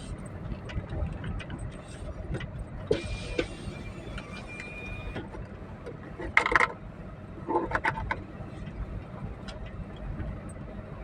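Car running on the road, a steady low rumble of engine and road noise, with two brief pitched sounds about six and a half and eight seconds in.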